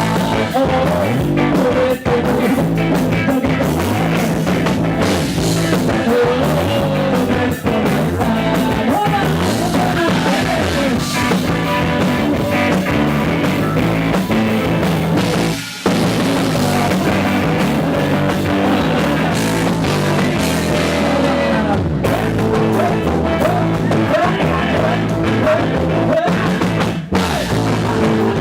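Live band music with a drum kit and guitar, a melody gliding over a steady beat, with brief breaks in the music about halfway through and near the end.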